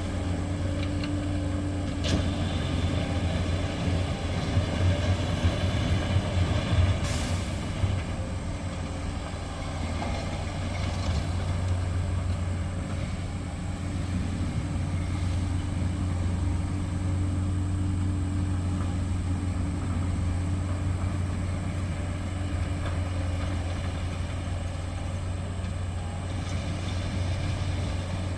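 Heavy diesel engines of dump trucks and road-building machinery running steadily with a deep hum, with a brief hiss about seven seconds in.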